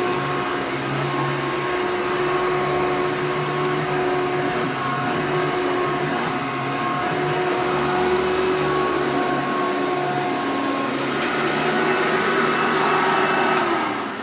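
Hoover Turbo Power 2000 upright vacuum cleaner running steadily. Near the end it is switched off and its motor's pitch falls as it winds down.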